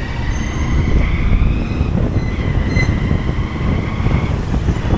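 Motorcycle and road-traffic noise: a steady, loud low engine and road rumble.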